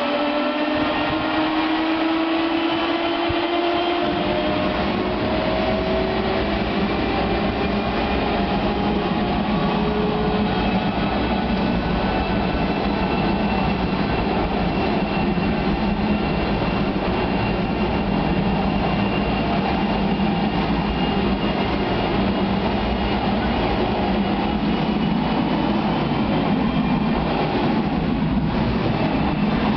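General Electric J33 centrifugal-flow turbojet starting up: a whine rising in pitch as the engine spools up, joined about three and a half seconds in by a deep rumble as it lights off, then running steadily.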